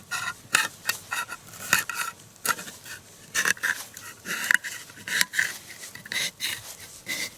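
Tin can being opened with a knife blade: an irregular series of metallic clicks and scrapes, each with a short ring, as the blade is punched in and levered around the lid.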